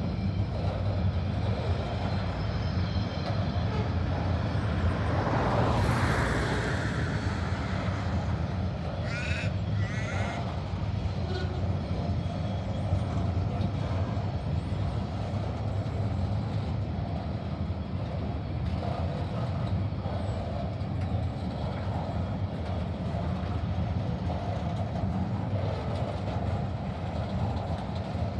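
Slow-moving TasRail diesel freight train running past with a steady low rumble that swells briefly early on. Two short high wavering sounds come about a third of the way in.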